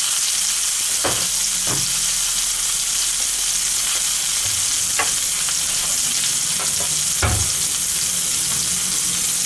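Burger patty with a cheese slice and a pineapple ring frying in hot oil in a pan: a steady sizzle, with a few short clicks along the way.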